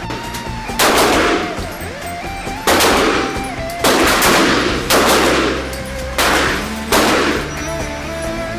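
Six gunshots at a shooting range, fired one at a time about a second apart, each with a short echo, over background music with guitar.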